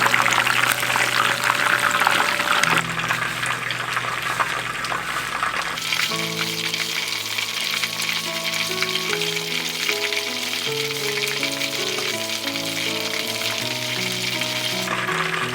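Food sizzling as it fries in a pan, loudest for the first three seconds and then softer, under background music with a slow melody.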